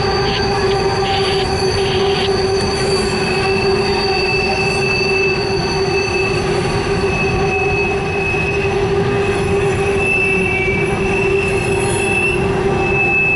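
Norfolk Southern coal train's hopper cars rolling past: the wheels squeal steadily against the rails in several held, high-pitched tones over a constant rumble of wheels on track.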